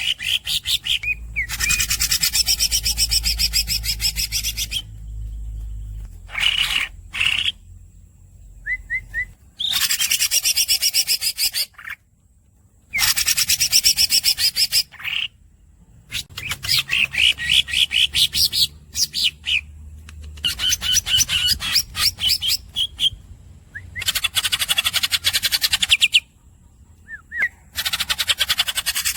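Green leafbird (cucak ijo) singing: high, fast rolling phrases of rapidly repeated notes, each lasting a few seconds, with short gaps and a few brief squeaky chirps between them.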